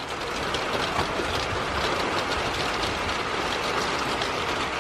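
Moderate rain falling steadily, a dense hiss full of small drop ticks, swelling in the first second and then holding.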